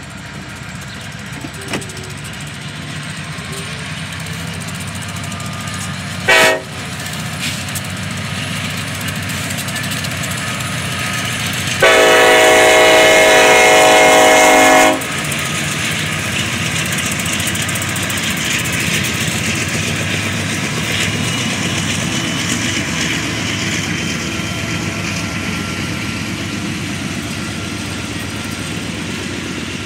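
Union Pacific diesel freight locomotives approaching and passing, their engines running, with a brief loud bang about six seconds in. About twelve seconds in the locomotive sounds one steady three-second blast on its multi-chime air horn, the loudest sound here. Loaded Herzog ballast hopper cars then roll steadily by on the rails.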